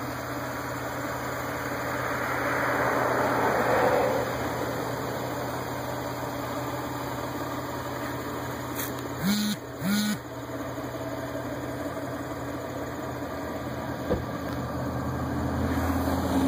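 Steady hum of a motor vehicle's engine idling, which swells for a couple of seconds early on. Two short beeps come a little past the middle, and there is a single click near the end.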